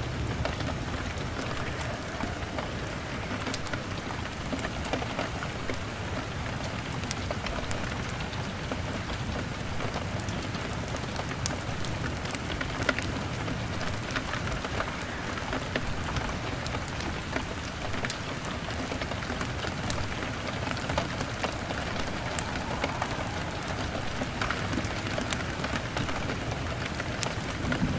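Steady rain on a window pane, mixed with the scattered sharp crackles of a log fire.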